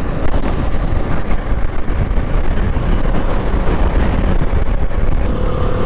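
Wind buffeting the microphone of a motorcycle rider at road speed, a steady rushing rumble with the bike's engine and road noise beneath it.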